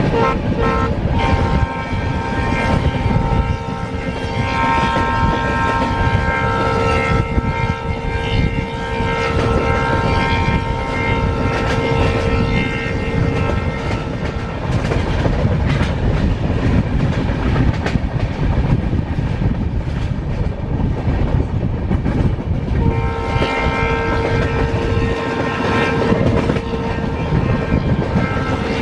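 Train horn, from the WDP-4B diesel locomotive hauling the train, sounding a long, steady, chord-like blast for about the first fourteen seconds, then another from about twenty-three seconds on. Underneath, the train runs on the rails with a steady rumble and a clickety-clack of wheels over rail joints.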